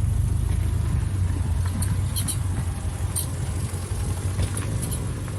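Car driving, a steady low rumble from the road and engine, with a faint, light squealing from the brakes: squeaky brakes, a brake problem such as worn pads, rusted rotors or a wear-indicator tab touching the rotor.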